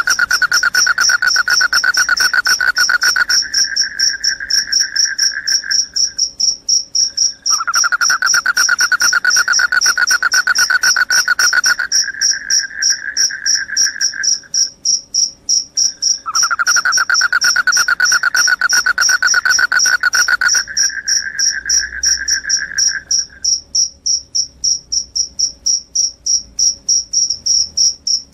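Crickets chirping loudly: a continuous, rapidly pulsed high-pitched song, overlaid by a lower-pitched pulsed trill that comes in three bouts of about six seconds each, starting at the beginning, about 7 seconds in and about 16 seconds in.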